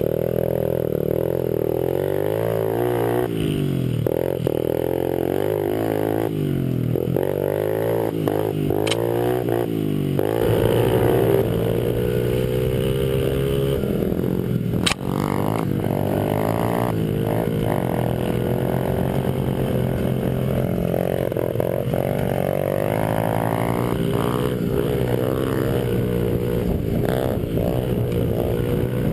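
Small Honda 50cc single-cylinder four-stroke pit bike engines revving up and falling back again and again as they race. There is a sharp click about fifteen seconds in.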